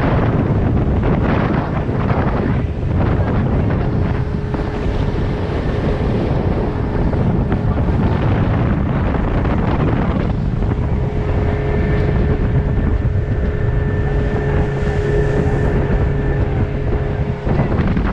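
Motorboat running offshore, its engine droning steadily under heavy wind buffeting on the microphone. A steady engine hum stands out through the middle and drops away shortly before the end.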